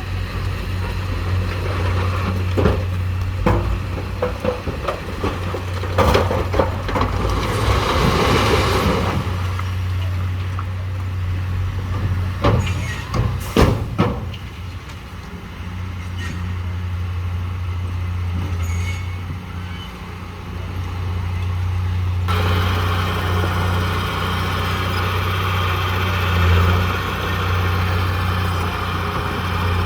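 The diesel engine of heavy earthmoving machinery runs steadily, with scattered sharp knocks and clanks through the first half and a brief rushing hiss about eight seconds in. About two-thirds of the way through, the sound turns abruptly harsher and brighter.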